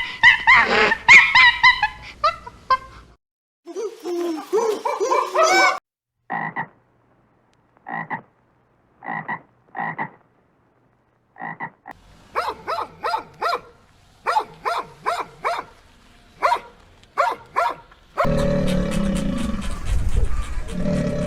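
A string of different animal calls one after another: a tangle of calls for the first few seconds, then short calls repeating about once a second, then quicker runs of short calls, and a loud, steady low-pitched call starting a few seconds before the end.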